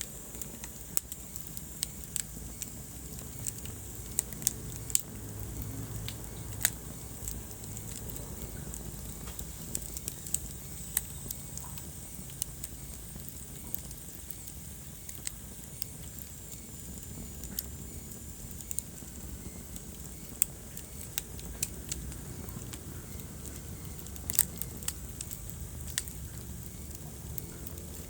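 Wood fire burning in a fireplace: a steady low rumble and hiss with frequent sharp, irregular crackles and pops.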